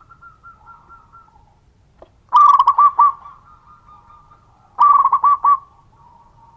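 Zebra dove (perkutut) cooing: two loud phrases of quick repeated coos, about two and a half seconds apart, with faint cooing between them.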